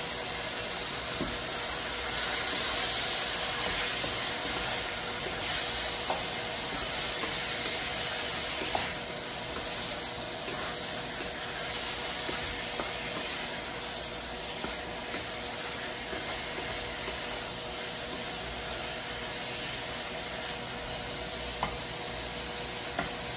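Diced chicken and onion sizzling in oil in a nonstick wok as a wooden spatula stirs them, with a few light clicks of the spatula against the pan.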